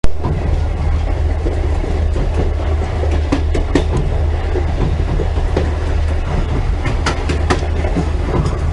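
El Chepe passenger train running along the track, heard from on board: a steady low rumble with scattered sharp clicks and knocks from the wheels and cars.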